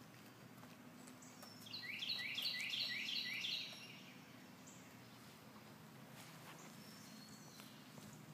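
A songbird sings a quick run of about eight downslurred chirps lasting about two seconds, over low, steady outdoor background noise.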